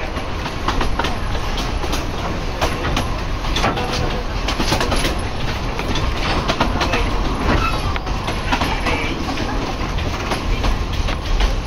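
Train running along the track, a steady rumble with irregular clicks and knocks of the wheels and cars over the rails.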